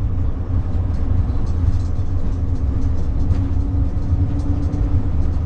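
Steady low engine and road rumble heard from inside a moving RV's cab, with a faint steady hum rising above it for a couple of seconds mid-way.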